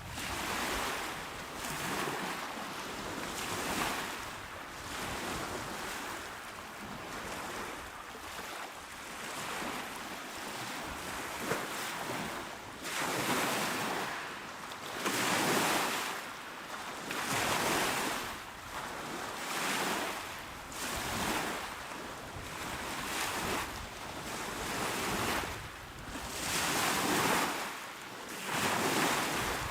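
Small, calm sea waves washing onto a shore, breaking in a rolling swell about every two seconds, with a few fuller breaks in the second half.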